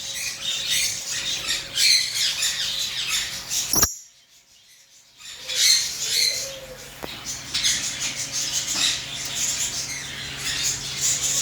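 Many caged birds chirping and squawking together, a busy stream of short high-pitched calls. The calls break off with a click about four seconds in and pick up again about a second later.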